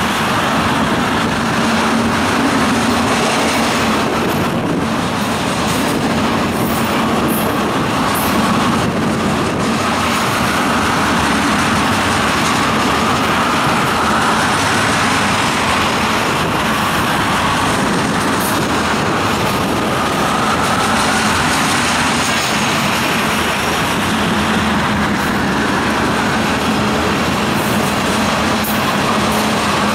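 Freight train rolling past at close range: a steady, loud rumble and rattle of wheels on rail, with a faint wavering squeal above it.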